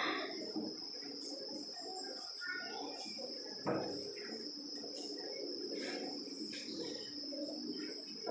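Classroom background: a steady high-pitched whine or insect drone runs throughout under faint, scattered children's voices, with a single knock about three and a half seconds in.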